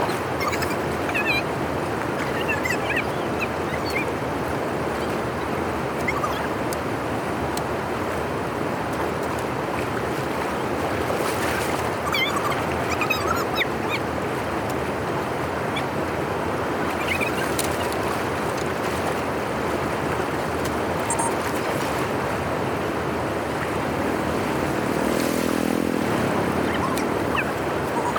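Steady rush of floodwater flowing through a dam drainage outlet, with faint high chirps over it and a short pitched call near the end.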